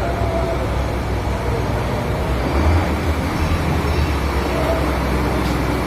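Cummins B4 four-cylinder diesel engine running steadily with a deep, even rumble, swelling slightly about halfway through.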